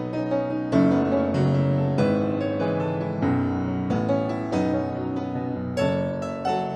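Piano music: melody and chords struck at an easy pace.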